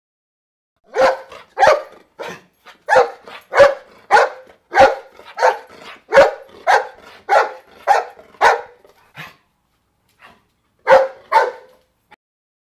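A dog barking in a steady run of sharp barks, a little under two a second, then a pause and two more barks near the end.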